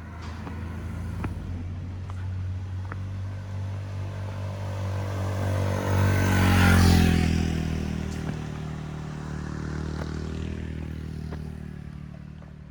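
A motor vehicle approaches and passes close by: its engine note grows, is loudest about seven seconds in, then drops in pitch and fades as it moves away.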